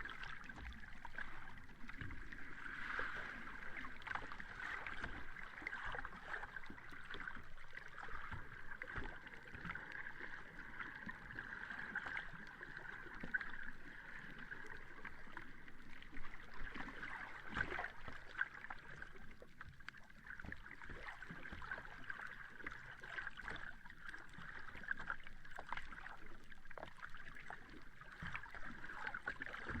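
Sea water washing steadily on a beach, an even wash with fine crackling and no big breaking waves.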